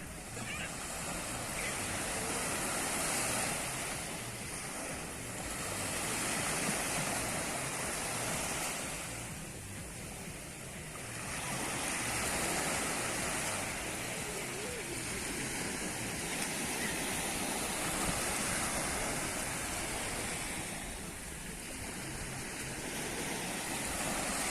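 Sea waves breaking and washing on a beach, swelling and easing every few seconds, with wind blowing across the microphone.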